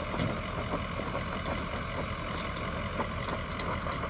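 An engine running steadily, with scattered light clicks and knocks over it.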